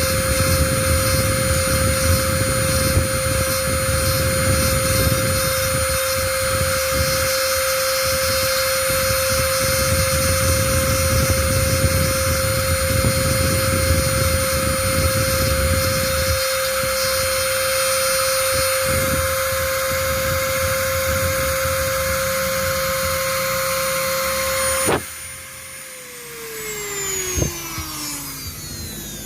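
A small electric motor running steadily with a constant whine, switched off about 25 seconds in, its pitch falling away as it spins down.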